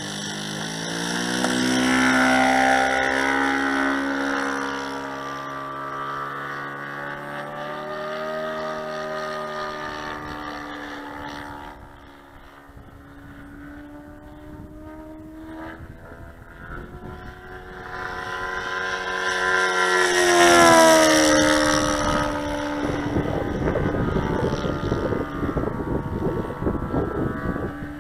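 Saito 180 four-stroke glow engine of a Percival Mew Gull RC model airplane running in flight. It makes two passes, each rising in level and dropping in pitch as it goes by, the louder one about twenty seconds in.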